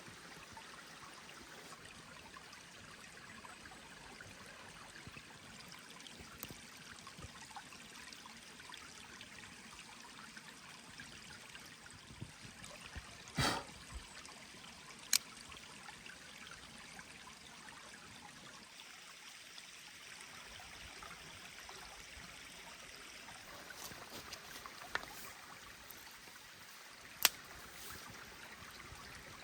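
Mountain stream flowing steadily in a faint, even rush. It is broken by four sharp clicks or snaps: two about halfway through and two near the end.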